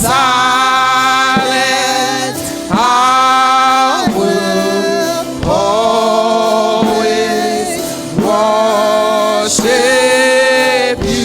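Worship singing: voices singing a slow gospel worship song in long held notes, with a short break between phrases every two or three seconds.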